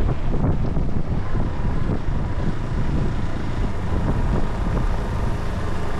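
Wind buffeting the microphone: a steady, heavy low rumble with no distinct events.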